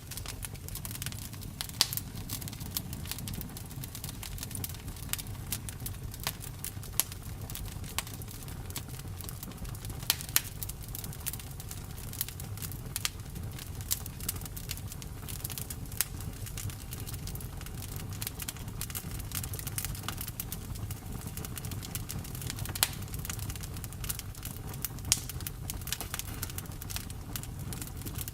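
Campfire crackling: a low steady rumble of burning wood with frequent irregular pops and snaps, a handful of them sharp and loud.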